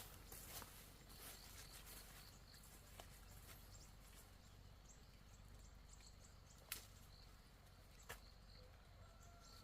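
Near silence: faint outdoor ambience with a few isolated soft clicks.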